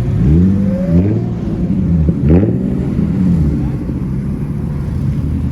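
Car engine revved in three quick blips, each rising in pitch and dropping back, then running steadily at idle.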